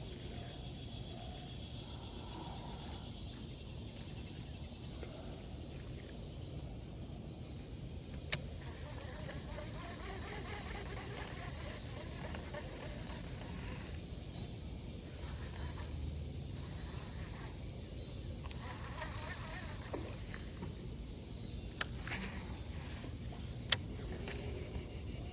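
Quiet outdoor pond ambience: a steady low background hiss with faint, scattered animal calls, broken by a few sharp clicks about 8 seconds in and twice near the end.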